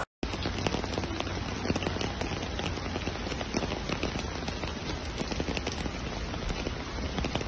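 Heavy rain falling on a flooded street, with floodwater flowing: a steady hiss dotted with many small drop impacts, starting abruptly after a brief silence.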